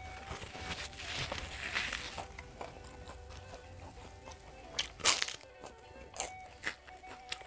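Close-up mouth sounds of a person eating: chewing early on, then sharp wet lip smacks, the loudest about five seconds in as a handful of rice goes into the mouth. Soft background music with a plucked guitar runs underneath.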